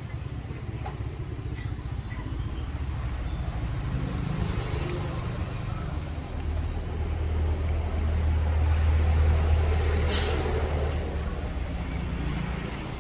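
Low rumble of a motor vehicle passing, swelling to its loudest about eight to ten seconds in and then fading, with a short sharp sound near the peak.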